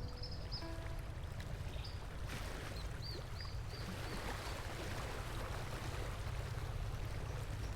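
River water running with a steady rush. A bird gives a short run of quick chirps about two and a half seconds in.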